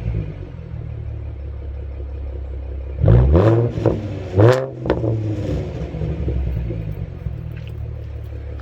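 2013 Ford Mustang's 3.7-litre V6 running through a muffler-delete exhaust: idling, then revved in two quick throttle blips about three and four and a half seconds in, each rising and falling in pitch before it settles back to idle.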